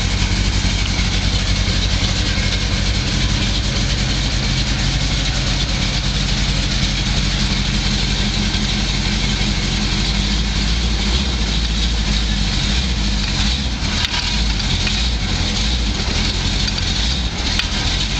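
A 1977 pickup truck's engine running steadily at a low idle.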